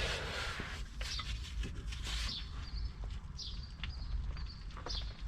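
A man breathing hard and straining as he heaves on a wrench at a seized shock absorber bolt, with a few faint clicks.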